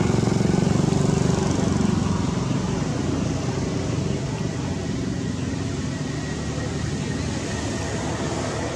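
A small engine running with a fast, even pulse, louder for the first two seconds or so and then easing a little lower.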